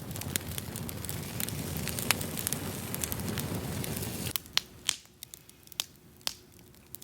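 Campfire burning with a steady rush and frequent sharp crackles and pops; about four seconds in the rush drops away abruptly, leaving only a few scattered loud pops.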